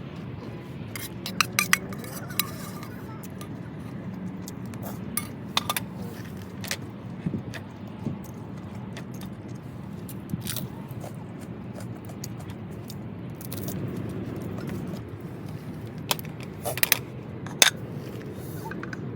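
Light clinks and clicks of small hard objects being handled, a dozen or so scattered sharp ones, over a steady low hum.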